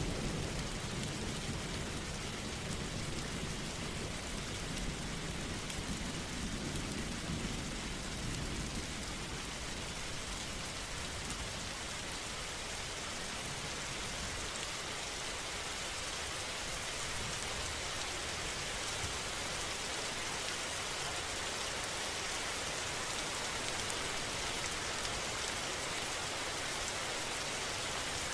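Steady heavy rain falling, with a low rumble in the first several seconds that fades away.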